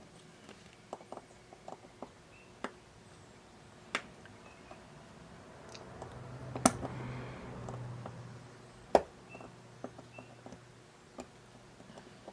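Scattered small clicks and taps of tools and tiny parts handled at a repair bench, with three sharper clicks about 4, 7 and 9 seconds in. A faint low hum swells briefly in the middle.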